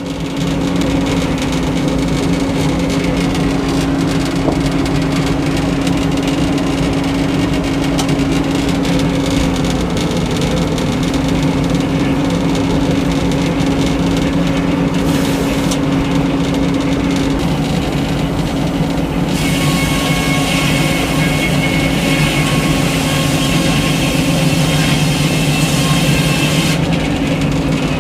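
Frick circular sawmill running steadily under its power unit. For several seconds near the end, a higher ringing whine joins in as the inserted-tooth head blade cuts through a white pine log.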